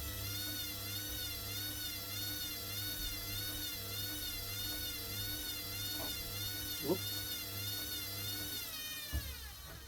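Hoover WDYNS654D washing machine spinning, its motor whine wavering up and down in pitch in a steady rhythm, with a short knock about seven seconds in. Near the end the whine falls in pitch and dies away as the spin winds down.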